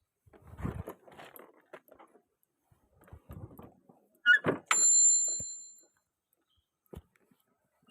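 Rustling and handling noises, then a sharp click and a single bell-like metallic ring about five seconds in, fading out over about a second.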